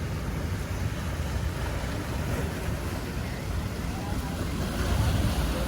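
Wind buffeting the microphone over the steady wash of ocean surf, with faint voices creeping in near the end.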